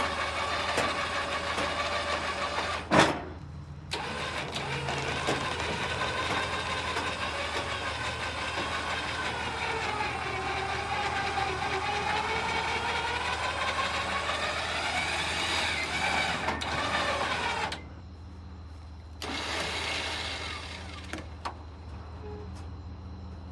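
Winch motor pulling a truck onto a trailer, a steady whine that dips in pitch through the middle of the pull and rises again. A sharp knock about three seconds in is followed by a short stop before it starts again. It stops near the end with a brief restart, over the low hum of an idling engine.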